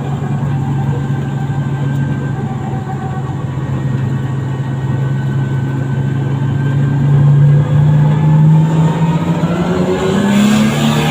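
Drift car's engine running at a steady speed, with its pitch climbing a little near the end.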